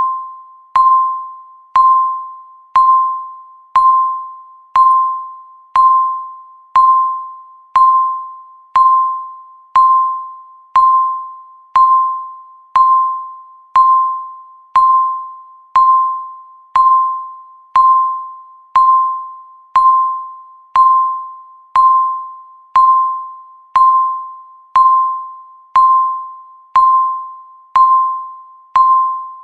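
Countdown timer beeping once a second: a single mid-pitched, bell-like electronic tone that starts sharply and fades away before the next, in a steady, even rhythm.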